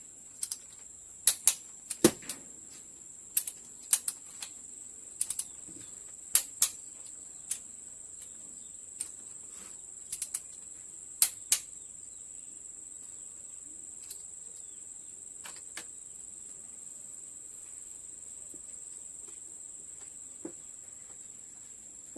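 Irregular sharp clinks of hand tools and engine parts handled during work on the 4D56U engine. They come quickly at first and thin out after about twelve seconds. A steady high-pitched whine runs underneath.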